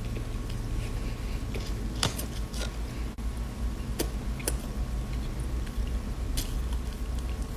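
Close-up chewing and crunching of a crisp snack, with a handful of sharp crunches, the loudest about two seconds in, over a low steady hum.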